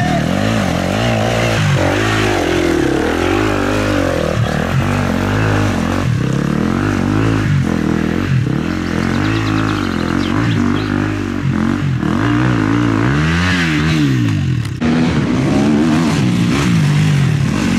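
Enduro motorcycle engine revving up and down over and over, the throttle opening and closing every second or two.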